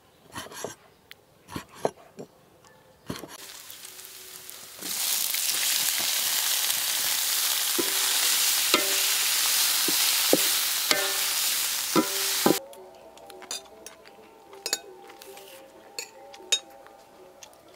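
A cleaver chops pig intestine on a wooden board in a few sharp knocks. Then, from about five seconds in, pig intestine fries in a hot metal wok with a loud, steady sizzle, while a spatula strikes and scrapes the wok, making it ring. The sizzle cuts off suddenly, and a few light clinks follow.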